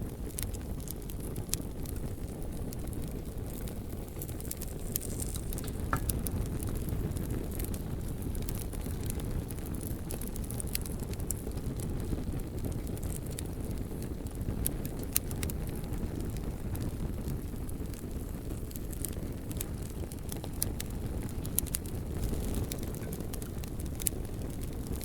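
Wood bonfire burning, with frequent sharp crackles and pops scattered irregularly over a steady low rumble; a few pops stand out louder.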